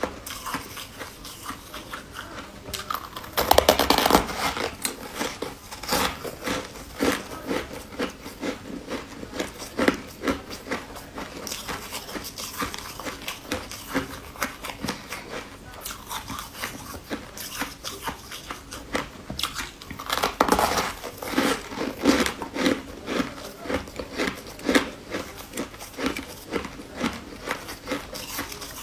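Close-up eating sounds of a person biting and chewing soft white ball-shaped sweets: a steady run of small wet mouth clicks, with two louder spells of biting, about four seconds in and about twenty seconds in.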